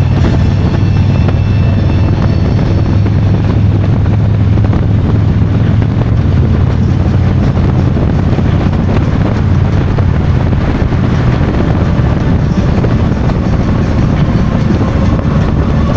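Harley-Davidson Street Glide V-twin engine running at a steady cruising pace, mixed with wind rushing over the microphone.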